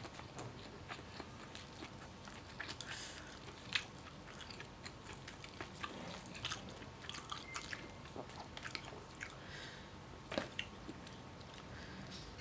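A person chewing and biting fried chicken and rice close to the microphone, with many short, irregular wet clicks and smacks.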